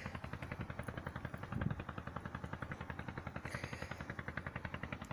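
Small boat engine running steadily with rapid, even thumps, with a brief low thud about one and a half seconds in.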